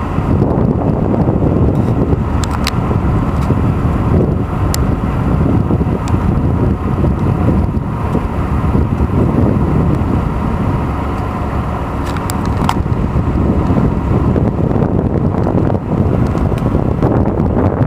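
Steady rumble of a car in motion, road and engine noise heard from inside, with a few faint clicks.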